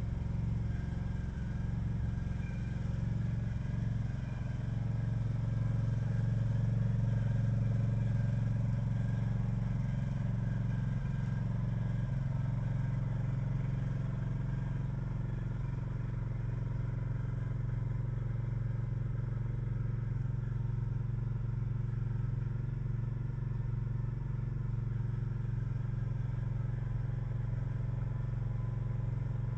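A motor running with a steady low hum that holds unchanged throughout.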